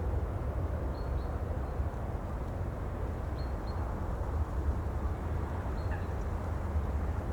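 Steady ocean ambience: a constant rush of sea and wind with a deep low rumble. Faint short high bird chirps come about every two seconds.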